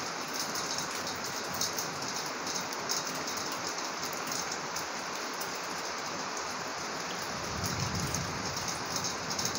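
Heavy rain falling steadily: a dense hiss with many small sharp drop clicks. A low rumble joins it about three-quarters of the way through.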